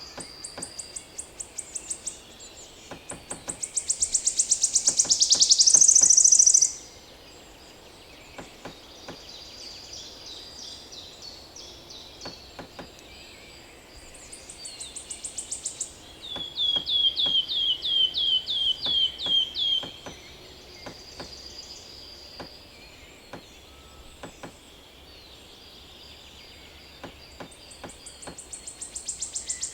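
Pileated woodpecker pecking at wood: irregular, unevenly spaced bill taps throughout. Other songbirds sing over it, with loud high rapid trills early on and near the end, and a run of about a dozen quick down-slurred notes in the middle.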